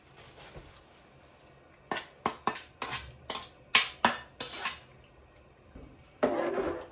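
Kitchen dishes and utensils clinking: about eight sharp clinks over roughly three seconds, then a brief scraping noise near the end.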